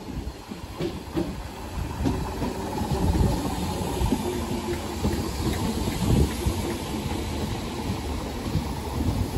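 Southern electric multiple unit running along the platform: a low rumble of wheels on rails with scattered clacks over the rail joints and a steady hiss. It grows louder over the first three seconds as the train comes alongside, then holds steady as the carriages pass.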